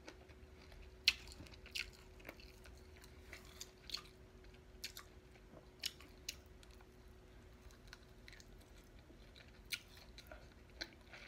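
Close-up mouth sounds of a person biting and chewing chicken wings: faint, irregular short clicks of chewing, a few sharper ones scattered through.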